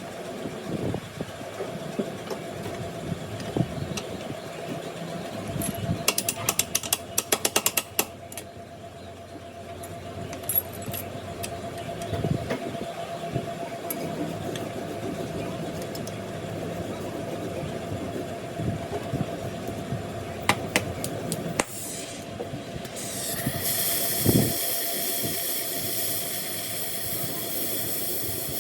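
A machine running with a steady hum, with a run of sharp clicks about six to eight seconds in, then a steady hiss that starts near the end.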